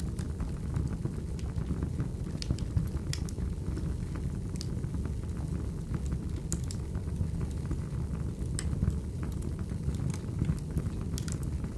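Wood fire crackling: a steady low rumble of flames with scattered sharp pops and snaps.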